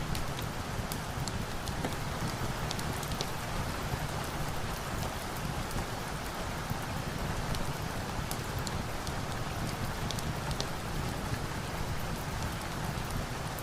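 Steady rain with a crackling log fire mixed in: a constant rain hiss with scattered small sharp pops and ticks.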